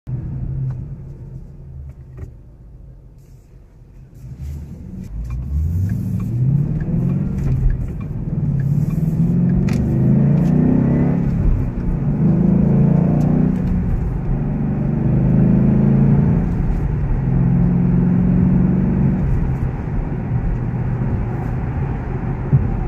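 2014 Ford Mustang GT's 5.0-litre V8, heard from inside the cabin, accelerating hard: its pitch climbs in several successive sweeps, each dropping back before climbing again, then it holds a steadier note near the end.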